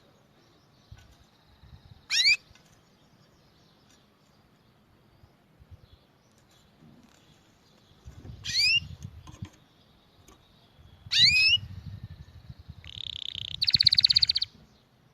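Canary singing: three separate quick whistled notes sweeping upward, spaced several seconds apart, then a buzzing rapid trill near the end. A faint low rumble sits under the later notes.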